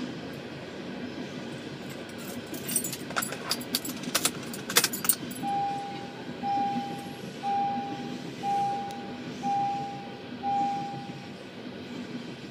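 A train rolling through a grade crossing with a steady rumble. A run of sharp clicks comes about two to five seconds in, then six short beeps about a second apart.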